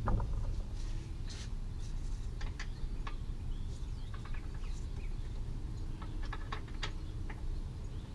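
A knock at the start, then scattered light clicks and taps over a steady low rumble.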